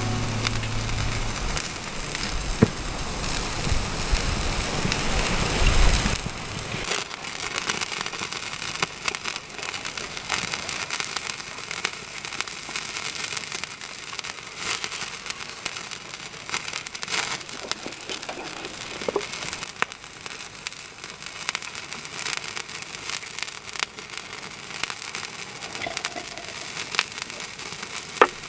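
Wood fire crackling in a small fire pit, with many irregular sharp pops over a steady hiss. A low rumble fills the first six seconds, then drops away.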